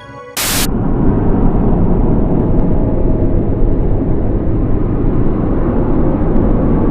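Music cuts off with a short, sharp burst of hiss, then a loud, steady, low rumbling noise, a drone or rumble effect in a horror soundtrack.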